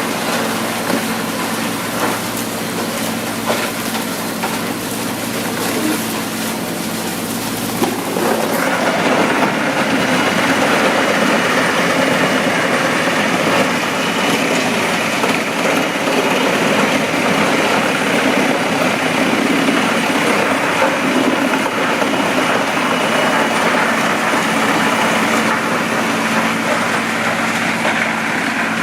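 Wood chipper running steadily with an engine hum under dense machine noise. About eight seconds in, the noise grows louder and stays that way.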